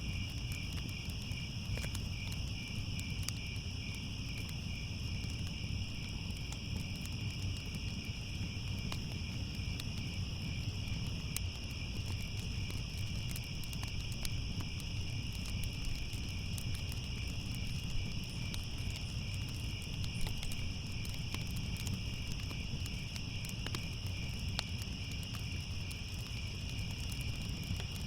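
Crickets chirping in a continuous pulsing trill over a crackling fire, with scattered small pops and a low steady rumble beneath.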